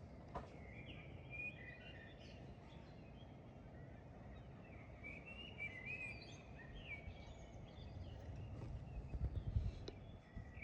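Faint outdoor ambience: small birds chirping repeatedly in short high calls over a steady low background noise, with a few low thumps near the end.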